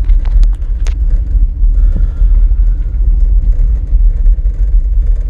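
1960 Cadillac Coupe de Ville's 390 V8 running as the car pulls away, heard as a low rumble inside the cabin, with a few sharp clicks in the first second.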